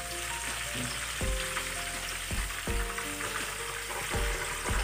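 Breaded chicken fillets sizzling steadily as they deep-fry in hot oil, under soft background music with held notes and a low beat.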